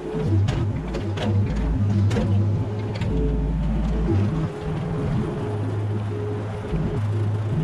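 Mini excavator's diesel engine running under hydraulic load, with several sharp knocks in the first couple of seconds.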